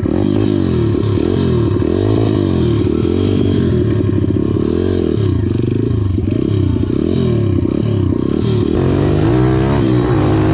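Pit bike's small single-cylinder four-stroke engine running hard under acceleration, its pitch climbing and dropping back again and again as it revs up and shifts through the gears.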